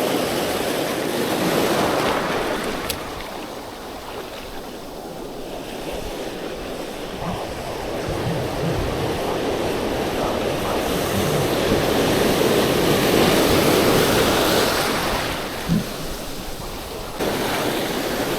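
Ocean surf breaking and washing along the shore, with gusty wind buffeting the microphone. The noise swells and ebbs over several seconds as the big waves come in.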